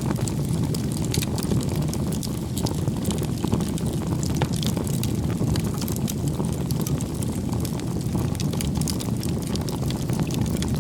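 Wood bonfire burning: a steady low rumble of the flames with frequent sharp crackles and pops from the burning wood.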